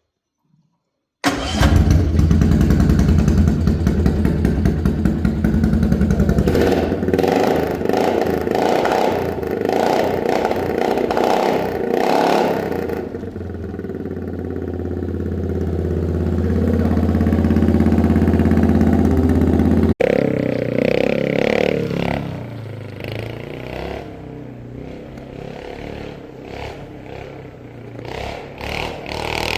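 An engine running through its muffler comes in suddenly about a second in. It settles into a steady idle with several revs, then breaks off abruptly at about 20 s into a quieter, uneven running sound.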